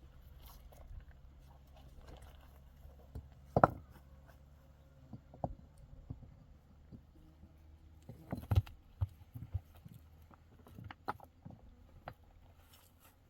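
Scattered short knocks and clicks of hard objects handled at close range, one loud knock a few seconds in and a cluster of louder ones about two-thirds of the way through, over a faint low background rumble.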